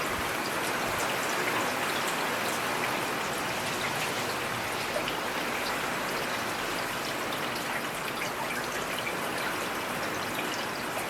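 Steady rain falling in a forest, an even hiss of rainfall with scattered individual drops ticking on nearby surfaces.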